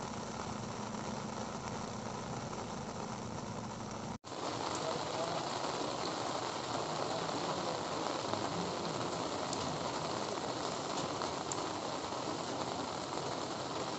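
Heavy rain falling steadily on a wet road and trees, a dense even hiss. The sound cuts out for a moment about four seconds in and comes back as louder rain. A low steady hum sits under the first few seconds.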